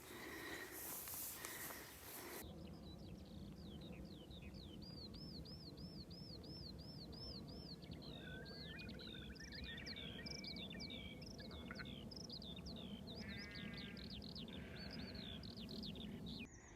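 Birdsong at dawn: songbirds singing, one repeating a clear arching note about three times a second, with a sheep bleating in the distance over a low steady hum. A hiss of wind-like noise fills the first two seconds, then cuts off.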